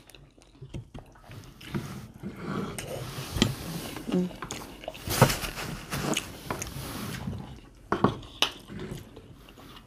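Close-up eating sounds of two people chewing soft fish and rice, with wet mouth clicks and smacks, the sharpest about five seconds in and again about eight seconds in.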